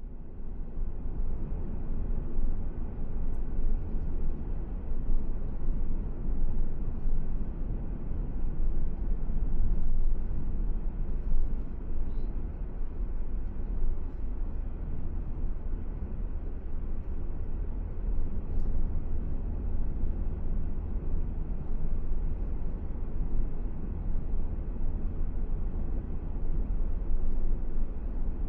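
A car driving: a steady low rumble of road and wind noise.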